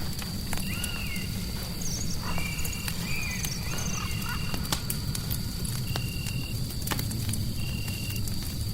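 Fireplace crackling in sharp scattered pops over a steady low rumble. Short, even chirps repeat about every second and a half, and a few wavering, gliding calls come in during the first half. A faint steady high tone runs underneath.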